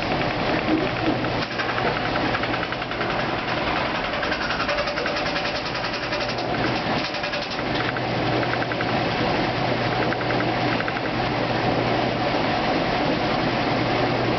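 2008 Kenmore washing machine in its spin cycle: a steady motor hum under the whir of the spinning tub, with a fast, even rattle through much of it.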